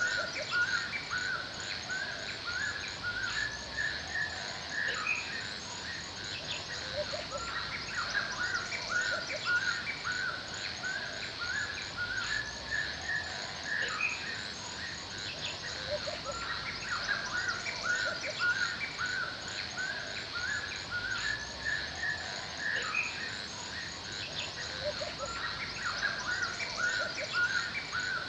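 Forest birds chirping continuously in quick runs of short repeated notes, over a fast, even, high-pitched pulsing trill and a steady background hiss.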